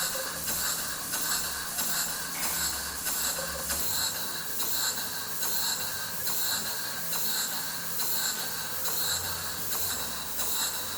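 Vulcan model steam beam engine running steadily, its exhaust beating out a regular hissing chuff about twice a second.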